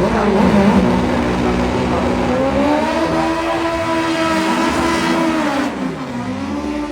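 Volkswagen Beetle drag car engine revving: its pitch rises about two seconds in, holds high for around three seconds, then falls away near the end.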